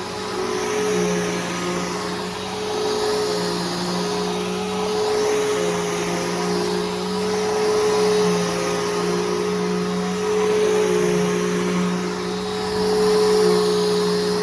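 Bissell Powerforce Helix Turbo upright vacuum running, fitted with a new brushroll and belt: a steady motor hum under rushing air that swells and fades every two to three seconds.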